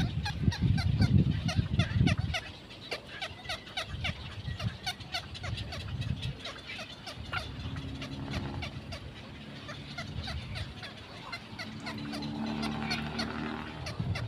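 Birds chattering: a dense run of short, rapid calls, many a second, that goes on throughout. A loud low rumble sits under the first two seconds, and a low steady hum comes in during the second half.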